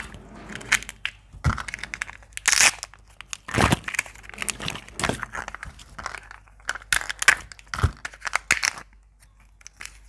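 Surprise eggs being opened by hand: wrappers crinkling and tearing, with crunching and cracking as the shells are broken open, in quick irregular bursts that thin out near the end.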